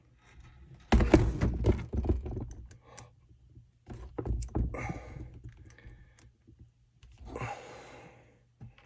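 Irregular light clicks and knocks of hard plastic parts of a string trimmer being handled and fitted together, with a short rasping scrape near the end.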